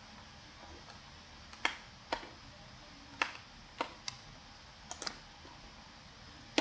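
About eight sharp, irregular clicks from a computer keyboard and mouse, spread over a few seconds against a faint steady room hiss.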